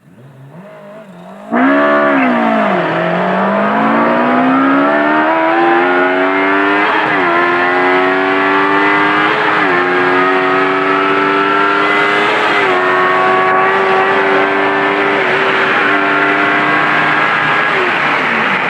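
Subaru Vivio with a swapped-in Kawasaki ZX-10R motorcycle engine at full throttle. The engine comes in loud about a second and a half in, dips, then climbs through the gears with a short drop in revs at each of four quick upshifts. Near the end the revs fall as the throttle is lifted.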